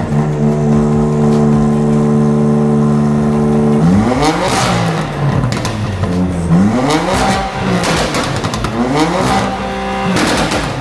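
Car engine held at steady high revs for about four seconds, then revved up and let drop again and again, about five times, with sharp cracks between the revs.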